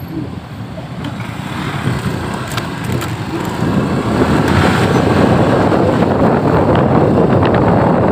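Traffic and road noise heard while travelling along a potholed road, with wind buffeting the microphone; it grows louder about four seconds in.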